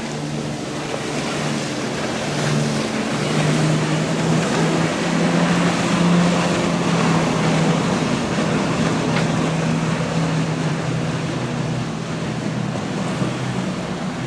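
A motorboat's engines running as the boat passes, with water and wake noise. It grows louder to a peak about halfway through, then slowly fades.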